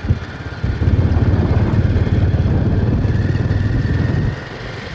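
A motor engine running, with a loud, low, fast-pulsing rumble that starts about half a second in and falls back shortly before the end.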